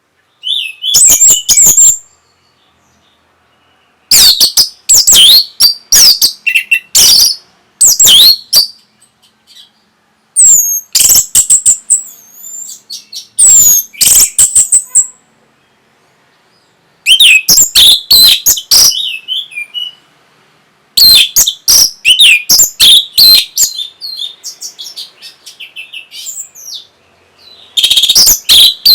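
Orange-headed thrush singing loudly: rapid, varied whistled phrases of quick gliding notes and chatters, each lasting a few seconds, with short silent pauses between them.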